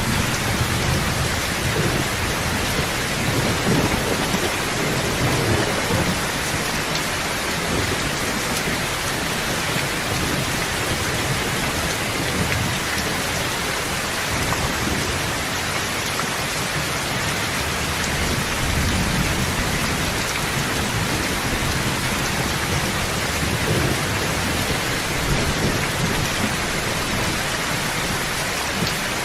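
Steady heavy rain, with deep thunder rumbling low underneath and swelling now and then.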